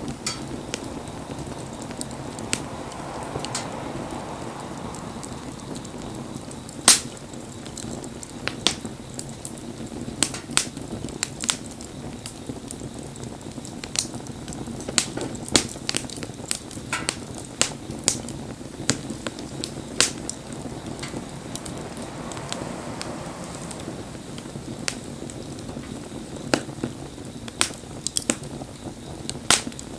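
Wood bonfire burning with a steady low rush of flame and irregular sharp crackles and pops of burning wood. A softer rushing swell comes up twice, a few seconds in and again past the middle.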